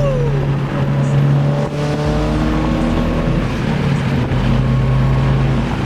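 Straight-piped exhaust of a Mazdaspeed 6's 2.3-litre turbocharged four-cylinder droning steadily inside the cabin while driving on the freeway. The drone's pitch steps down slightly about three seconds in.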